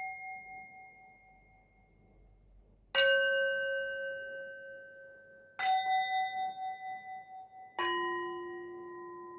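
Metal singing bowls struck three times at different pitches: a middle one, a higher one, then a low one. Each rings on and slowly fades with a wavering beat, over the fading ring of an earlier strike.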